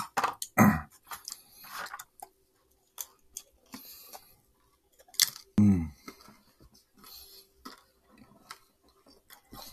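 A person chewing food with wet mouth sounds and many small clicks. Two short voiced sounds from him stand out, one just after the start and a louder one about five and a half seconds in.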